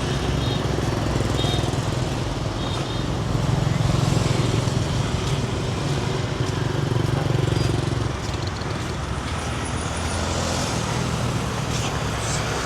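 Road traffic: a continuous low engine rumble under a steady wash of noise, louder for a few seconds in the middle as a vehicle passes close.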